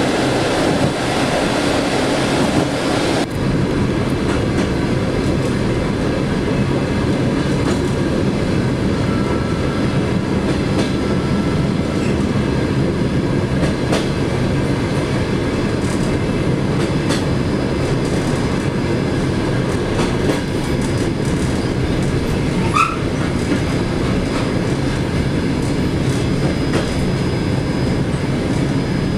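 Passenger train running over the track, heard from the rear vestibule of the last car: a steady rumble of wheels on rails with occasional clacks over rail joints. The hissing high end drops away a few seconds in, and a brief high squeal sounds about two-thirds of the way through.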